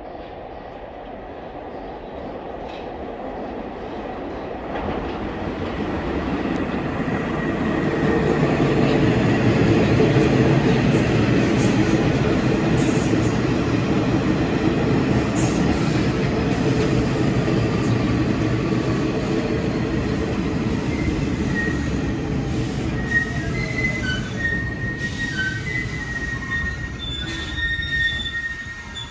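R46 New York City subway train running into the station: the rumble of the cars and wheels builds over several seconds to a loud, steady run. In the last several seconds, high-pitched wheel squeals come in on top of it.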